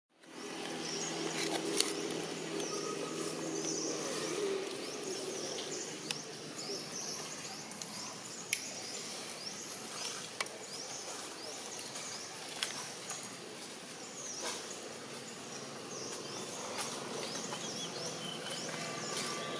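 Outdoor ambience with birds chirping over and over in short, high, falling calls, and a few sharp clicks. A low steady hum runs through the first few seconds.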